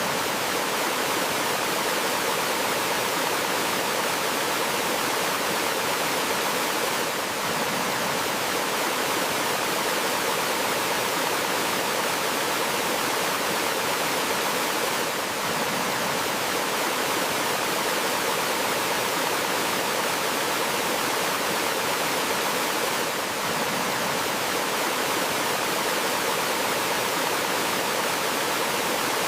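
Gentle forest waterfall: water flowing and splashing in a steady, even rush.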